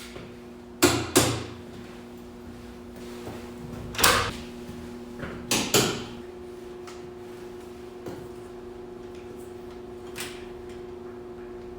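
Clattering work sounds: a handful of sharp knocks and clacks, mostly in close pairs, over a steady machine hum.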